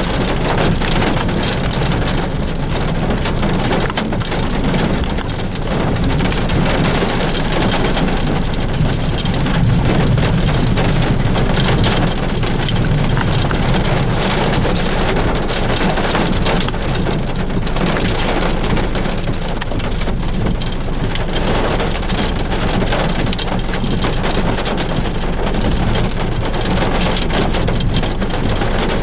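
Heavy rain falling steadily, a dense hiss full of small drop hits, with a low rumble underneath that swells about ten seconds in.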